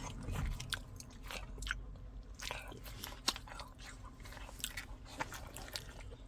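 A dog chewing a piece of naan bread topped with cheese: quiet, irregular crunching and mouth clicks, one sharper click about halfway through.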